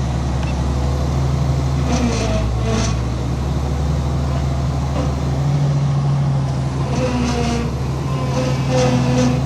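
Heavy diesel engine of earthmoving equipment running steadily at a low, even drone, with brief higher-pitched sounds over it now and then.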